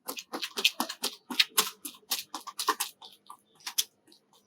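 Rapid footsteps of a fast-feet drill, mixed with hand slaps on a netball: a quick run of sharp taps, about five a second, that stops a little before four seconds in.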